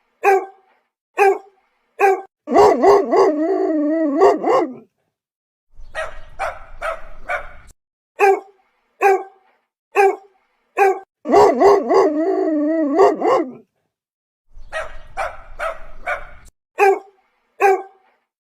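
A dog barking in short single barks, then giving a long, wavering howl, then a rougher, noisier stretch of barking. The same sequence plays twice.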